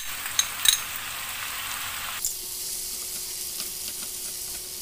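Sliced zucchini and chopped tomatoes sizzling in a frying pan over high heat, stirred with a spatula. There are a few light clicks about half a second in, and a little over two seconds in the sizzle abruptly turns quieter and thinner.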